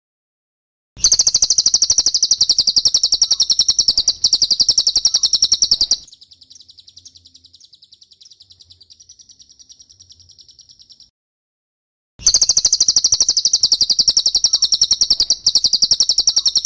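Brown cililin song: loud runs of very rapid, high-pitched repeated chirps, with a quieter thin trill between them. There is a pause of about a second before the second loud run.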